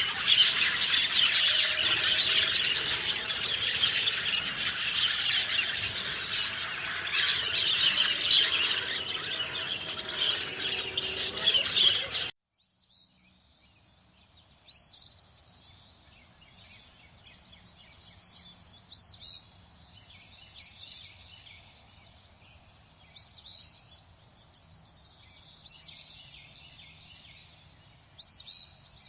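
Dense chorus of many birds chirping and singing together, cutting off abruptly about twelve seconds in. After the cut, a quieter scene where a single bird repeats short, high, down-slurred calls every second or two.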